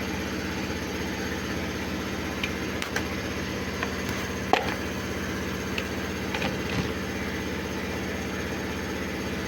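A steady mechanical hum runs throughout. Over it come a few sharp clicks and knocks, the loudest about four and a half seconds in, as metal suspension parts are handled.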